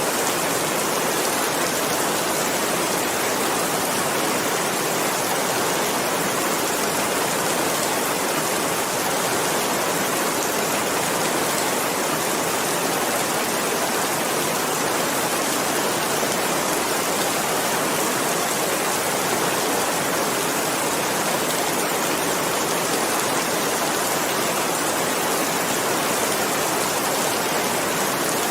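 Steady rain, an even, unbroken hiss with no single drops or other events standing out.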